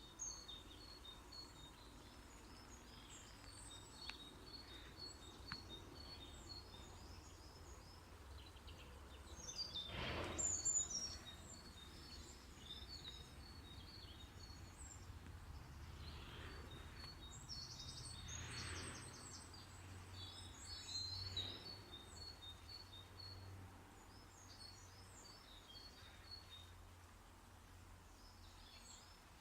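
Small woodland birds singing, with many short high chirps and trills throughout over a steady low rumble. A louder rush of noise comes about ten seconds in, and a smaller one near eighteen seconds.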